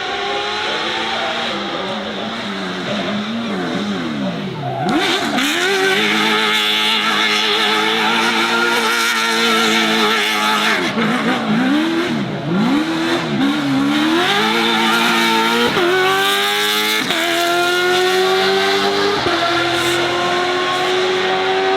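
Racing car engine revving up and down repeatedly, with tyre squeal. Then it accelerates hard, the pitch climbing through several quick upshifts in the last third.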